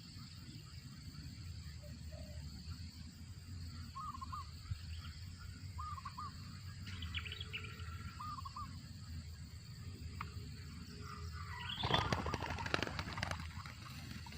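Spotted dove making short, cricket-like chirps while feeding its chick: a few soft notes a couple of seconds apart. Near the end comes a brief rustling burst, the loudest sound, over a steady high hiss.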